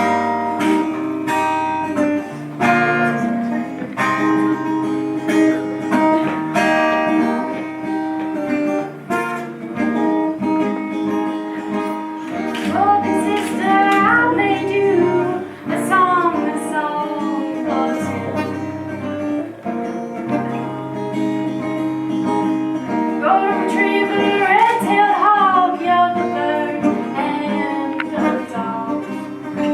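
A song with a strummed acoustic guitar and a voice singing over it, the voice entering at times.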